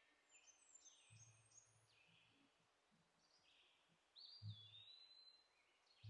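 Near silence with faint birdsong: short falling chirps, then one longer whistled note about four seconds in.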